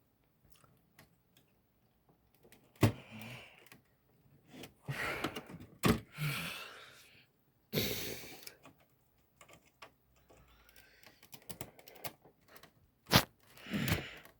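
Sharp plastic clicks and knocks with rustling as a power supply cable and its connector are handled and pushed into an original Xbox. Four louder clicks stand out among the handling noise.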